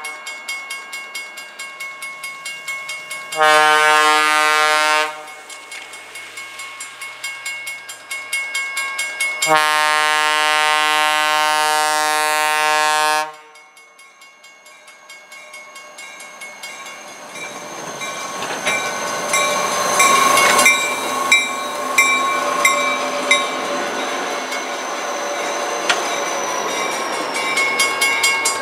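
Locomotive multi-chime air horn blowing for a grade crossing: a short blast about three seconds in and a long blast from about ten to thirteen seconds, over the regular ding of the crossing signal bell. The snow-plow train then approaches and passes, its rumble building with wheels clattering over the crossing.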